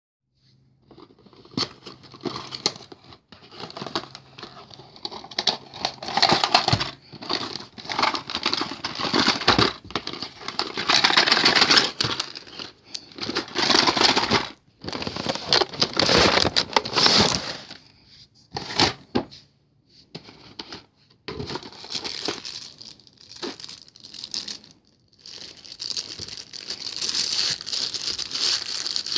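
Packaging of a boxed model airplane being handled and unwrapped: crinkling and tearing in irregular bursts with short pauses, and a few sharp clicks.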